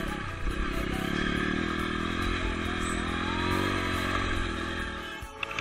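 Off-road motorcycle engine running under throttle as the bike rides over rough grass, its pitch rising gently through the middle and easing off near the end.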